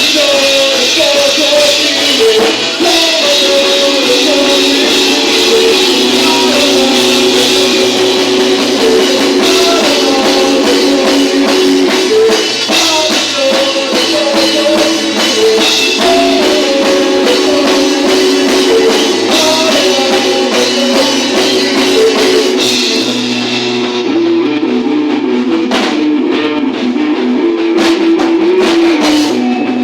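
Live rock band playing loud, with guitar and drum kit. The bright top of the sound falls away about 23 seconds in, leaving the lower guitar lines.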